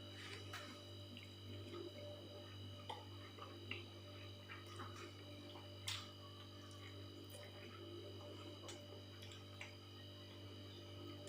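Faint eating sounds: scattered small clicks of chewing and of food being handled, the sharpest about six seconds in, over a steady low hum.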